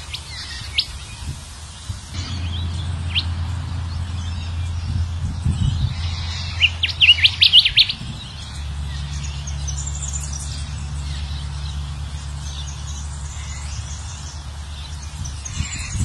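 Golden whistler (kancilan emas) calls: scattered short sharp notes, then a loud quick run of about six notes some six and a half seconds in, followed by thinner high twitters. A low steady hum runs underneath.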